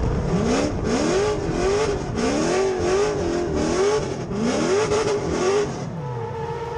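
6.0-litre LS V8 in a Nissan 240SX S13 drift car revving hard in quick, repeated surges, each rising in pitch and dropping again, about ten in a row. Near the end it settles to a quieter, steadier note.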